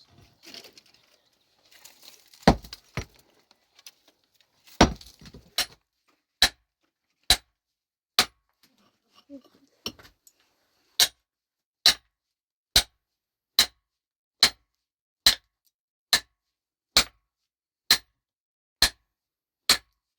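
Sharp, ringing strikes of a hand tool on something hard: a few scattered blows, then a steady run of strikes a little faster than one a second.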